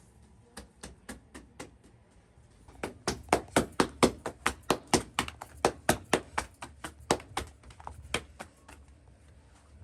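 A rapid series of sharp knocks, a few scattered at first, then an even run of about three to four a second for around five seconds before it tails off.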